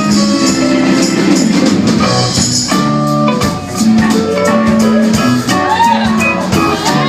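Live rock band playing, with guitar and a tambourine keeping a steady beat; a bending melody line, vocal or guitar, comes in about halfway through.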